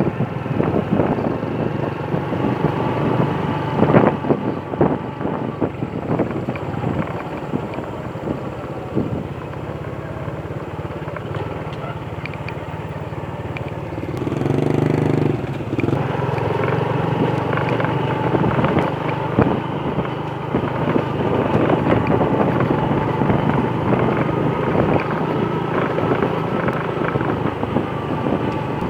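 Motorcycle running steadily on the move, with many short knocks and rattles from the ride.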